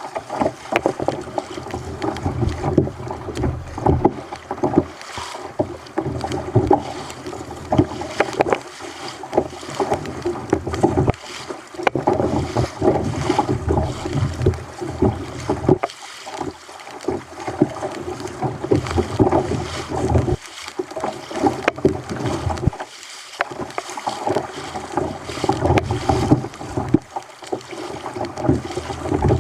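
Water splashing and sloshing against a kayak's hull in a rough sea, in irregular surges that keep rising and falling, with wind buffeting the microphone.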